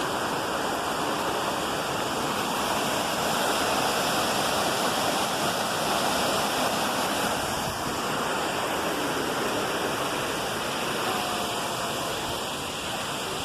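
Minneopa Falls waterfall: a steady, unbroken rush of falling water.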